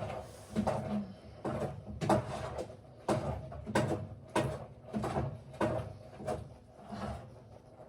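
A steady series of hard knocks, about two a second, each with a little ringing after it.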